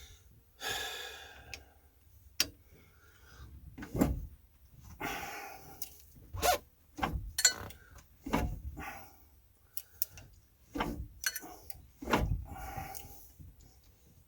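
Irregular knocks, clicks and clanks of tools and parts being handled during repair work, with a few short scraping or creaking sounds between them.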